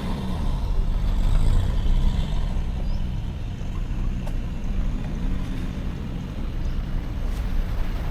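Mitsubishi Pajero driving along a dirt 4WD track: steady engine and road rumble.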